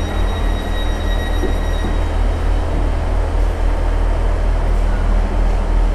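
Train at a railway station: a steady low rumble, with a thin high whine that stops about two seconds in.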